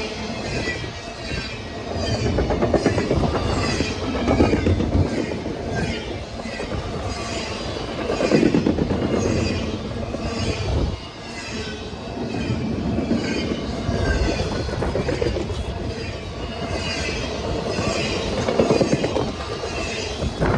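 Railroad cars rolling past on the rails, the wheels clattering and rumbling in swells every couple of seconds, with some high wheel squeal.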